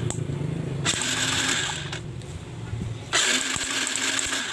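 Yamaha Vega R New engine being cranked over in two short bursts of about a second each, with a steady whine under a hiss. This is a spark test with the CDI wire held at the ignition coil.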